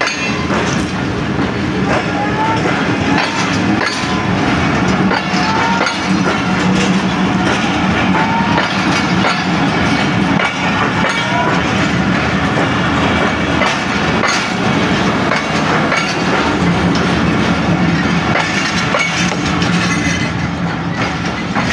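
Indian Railways passenger train moving slowly, its wheels clattering over the rail joints above a steady low rumble.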